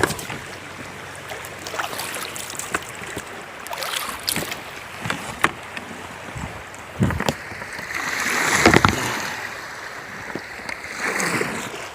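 A kayak being boarded and pushed off in shallow river rapids. Rushing, splashing water is broken by scattered knocks of hull and paddle, with a louder surge of splashing about two-thirds of the way in.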